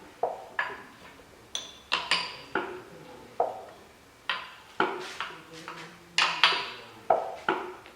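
Irregular sharp metal-on-metal clinks and knocks, about a dozen, each ringing briefly: hand tools working on a Toyota 3L diesel engine's bottom end while its crankshaft is turned over by hand.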